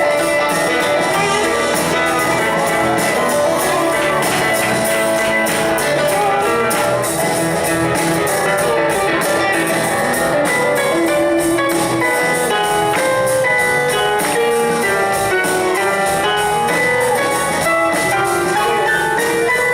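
Live band playing a bluesy instrumental passage, with guitar out front over a drum kit.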